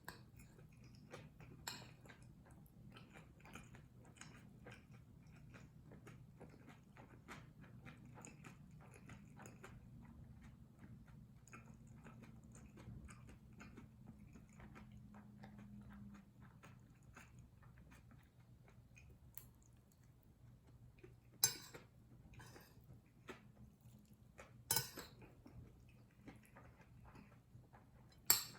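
Close-up chewing and wet mouth sounds of someone eating kimchi fried rice, many small clicks in quick succession, with three louder sharp clicks in the last third, likely a spoon on the dish.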